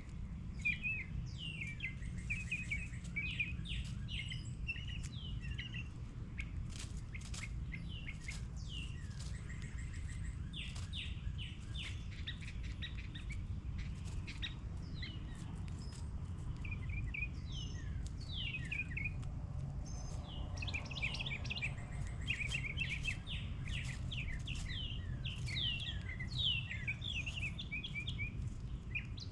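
Several small birds chirping and twittering without pause: quick, short, downward-sliding notes, mixed with sharp clicks, over a steady low rumble.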